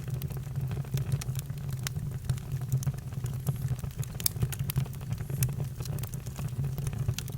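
Campfire crackling: frequent irregular sharp pops and snaps over a steady low rumble of the burning fire.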